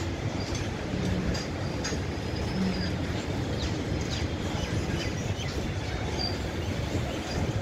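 Freight train's wagons, flat wagons loaded with rails and an open wagon, rolling past on the track: a steady rumble of wheels on rails, with a few faint short high squeaks and clicks.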